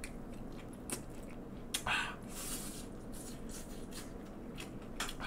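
Chewing and mouth sounds of someone eating. A few short clicks of metal chopsticks against plastic food containers come through, the loudest about two seconds in.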